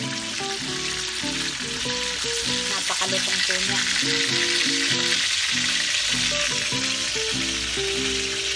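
Lumpiang shanghai spring rolls sizzling steadily in hot cooking oil in a steel wok, with metal tongs turning them and clicking now and then. Background music plays underneath.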